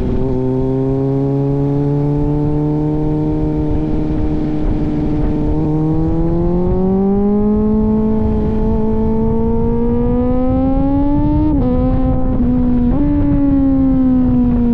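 Kawasaki Z900 inline-four through an aftermarket AR exhaust, running under way. The engine note holds steady, then climbs gradually as the bike accelerates. Near the end it drops sharply at a gear change, jumps back up and eases off, over steady wind and road rumble.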